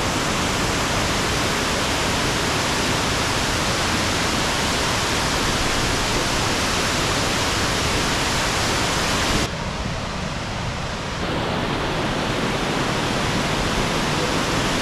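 Magpie Falls waterfall rushing steadily, ripping with high flow after recent rain. About nine and a half seconds in the noise changes abruptly, a little quieter and duller for a couple of seconds, then returns as before.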